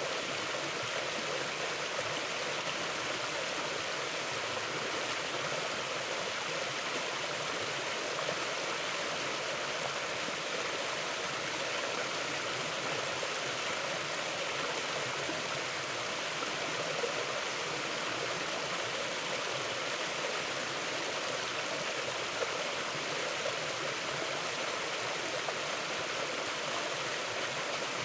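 A river flowing steadily over rocks, an even rushing of water with no change in level.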